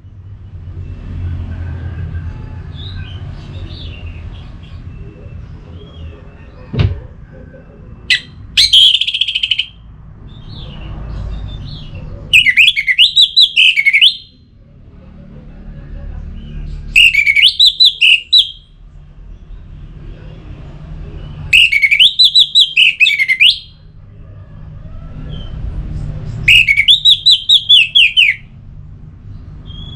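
Orange-headed thrush singing loud phrases of rapid, swooping notes, one about every four to five seconds in the second half. Softer chirps and a low rumbling background fill the gaps, and there is a single sharp click about seven seconds in.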